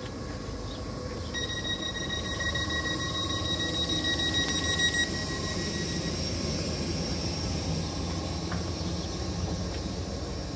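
A Class 313 electric multiple unit standing at the platform with its equipment humming steadily. A high-pitched door warning tone starts about a second in and sounds steadily for about four seconds, the signal that the doors are closing before departure.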